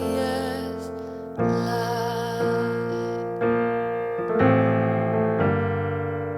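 Keyboard playing soft piano chords, a new chord struck about once a second and each left to ring and fade.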